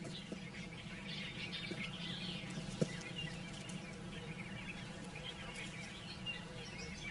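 Birds chirping and calling in the bush, many short high calls overlapping, over a low steady hum. A single sharp click sounds about three seconds in.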